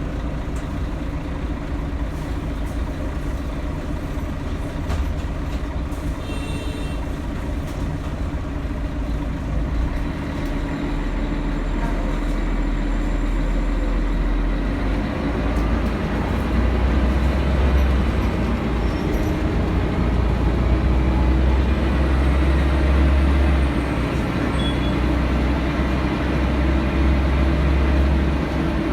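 Scania L113CRL bus with an Ansair Orana body, heard from inside the cabin while riding: its diesel engine runs with a steady rumble, which grows louder and deeper from about ten seconds in. A brief high beep sounds about six seconds in.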